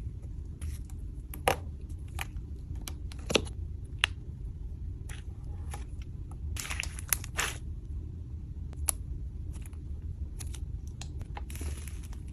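Slime being handled, giving scattered sharp clicks and crackles, with a cluster of them a little past halfway, over a steady low rumble.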